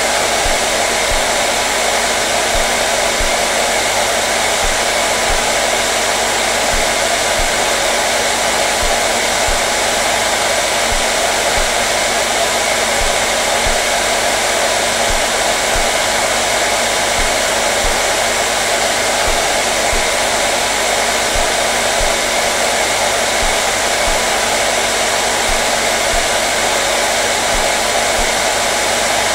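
Hair dryer running steadily, an even rushing blow of air with a faint motor hum underneath, unchanging throughout.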